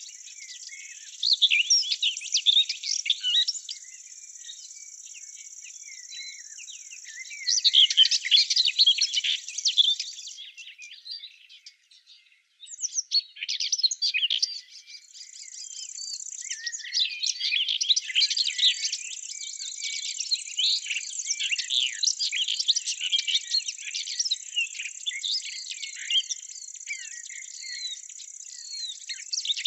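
Songbirds singing in quick twittering phrases over a steady, high-pitched insect trill. Both break off briefly about twelve seconds in, and the birdsong is densest in the second half.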